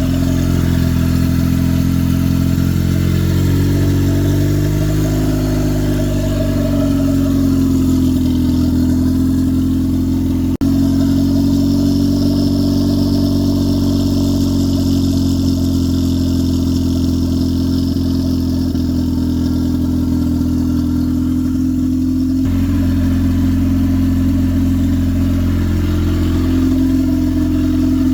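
Turbocharged Honda Civic four-cylinder engine idling as it warms up. The idle speed wavers up and down for the first several seconds, then settles steady.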